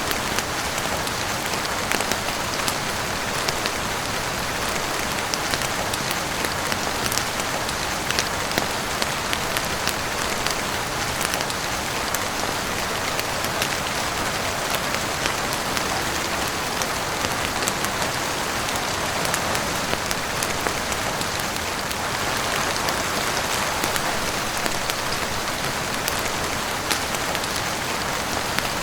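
Steady heavy rain, an even wash of noise with many small sharp ticks scattered through it.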